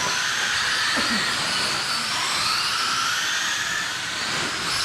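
Several 21.5-turn brushless electric motors of 1/10-scale RC late model race cars whining together as the cars circle a dirt oval. The whine rises and falls in pitch as they speed up on the straights and ease off in the turns.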